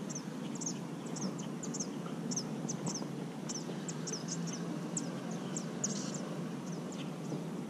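Small birds chirping: a steady run of short, high, down-slurred chirps, about three a second, over a low steady rumble of outdoor ambience.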